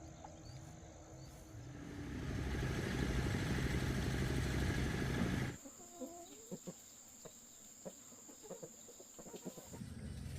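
A motor engine running and growing louder, cut off abruptly about five and a half seconds in, followed by chickens clucking with short scattered calls.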